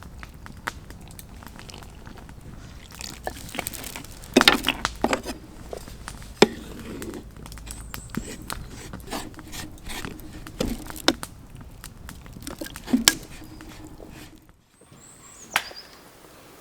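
Scattered crackles, clicks and sharp knocks from a campfire and camp cooking gear being handled, loudest in a cluster of knocks about four and a half seconds in. The sound cuts away suddenly near the end.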